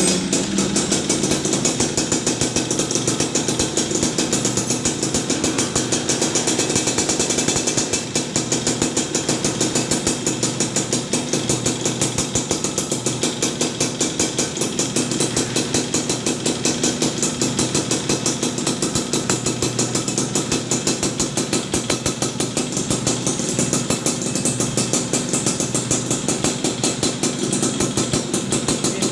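Yamaha F1ZR 110 cc two-stroke engine running through an aftermarket chrome Brat exhaust, held at a steady idle with a rapid, even pulsing beat.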